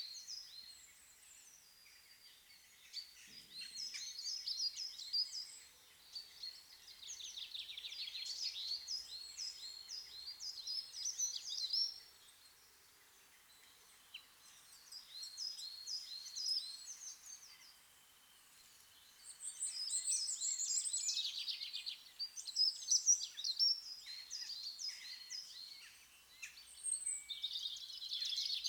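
Small songbirds singing: rapid high chirps and trills coming in phrases of a few seconds, with short pauses between them.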